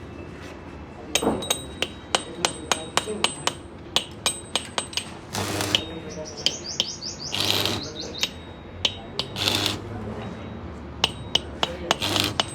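Metal hand tools tapping and clinking against metal: many sharp taps at an irregular pace, several with a short metallic ring. A few short, noisy rushes are mixed in between the taps.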